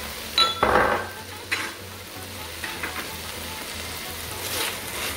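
Sliced onions and chopped green chillies sizzling in hot oil in a pan, with a metal spoon clinking and scraping against the pan, loudest about half a second in and again briefly at about a second and a half.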